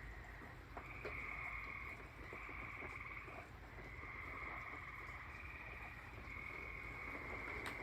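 A chorus of tree frogs trilling: overlapping trills about a second long, one after another. Light rain is still falling, with a few sharp drips.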